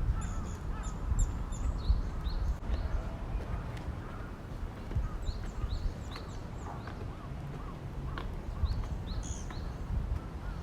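Small birds chirping: several runs of short, high, down-sweeping notes, near the start, around the middle and again near the end, over a steady low background rumble.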